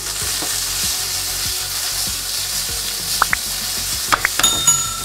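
Asparagus sizzling steadily in hot olive oil in a nonstick frying pan. In the last two seconds the pan is shaken to toss the spears, adding a few clicks and knocks of pan and food.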